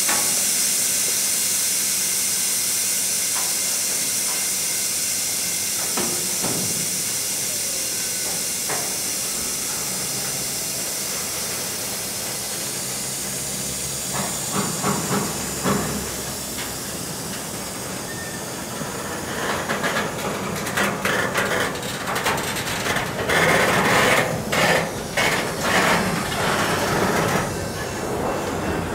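Steady high air hiss from the freight train's brake system, slowly fading over the first half. Then the loaded flatcars start rolling slowly, with irregular knocks and clanks from wheels and couplers that grow busier from about twenty seconds in.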